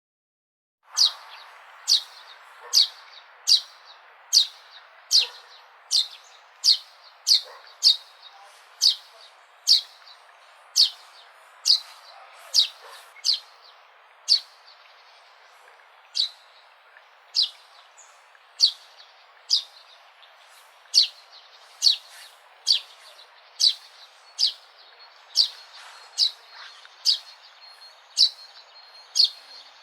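A sparrow chirping, one short sharp cheep at a time, a little over one a second, starting about a second in over a faint steady hiss.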